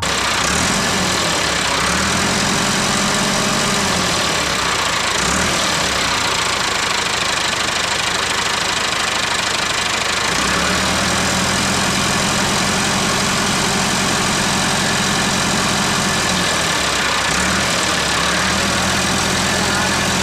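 A miniature tractor's engine running steadily with a hiss over it; its low drone shifts pitch a few times.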